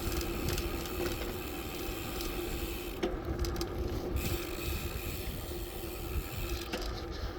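Bicycle on the move: a steady low rumble with a faint hum and light mechanical rattling and clicking, and a sharper click about three seconds in and again near the end.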